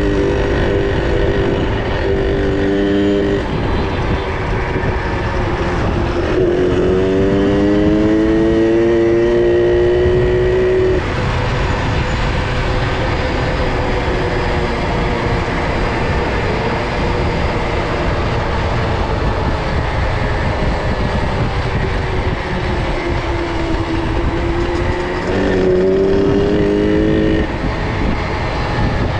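Small two-stroke minibike engines running on a ride, under a steady rushing noise. About a third of the way in, an engine revs up, climbing in pitch for a few seconds, then cuts off suddenly. Near the end a shorter engine note comes and goes.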